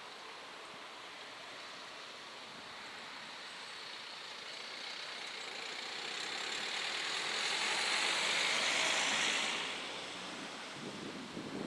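A vehicle passing by, its hissing noise swelling slowly to a peak about eight or nine seconds in and then dying away.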